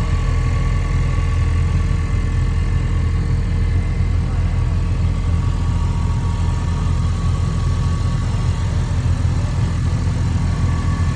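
Vehicle engine running steadily, a constant low-pitched drone with no revving.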